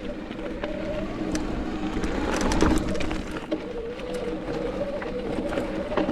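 Mountain bike rolling over a rocky trail: a steady whirring hum from the wheels that dips a little in pitch midway, with scattered clicks and knocks from the bike and a louder rattle of knocks about two and a half seconds in.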